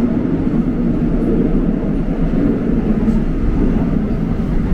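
Steady low rumble of a Seoul subway train running in the station.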